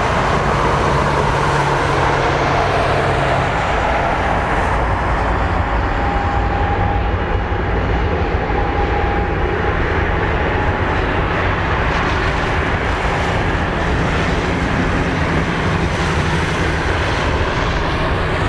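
Jet airliner engine noise, steady and loud, with a thin whine that holds for a few seconds in the middle.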